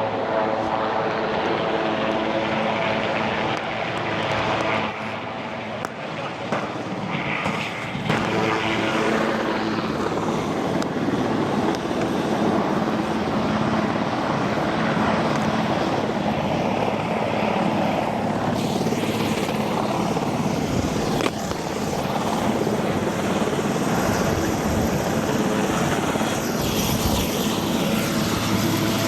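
Marine One helicopter running close by: a loud, steady turbine whine and rotor noise, briefly quieter about five seconds in.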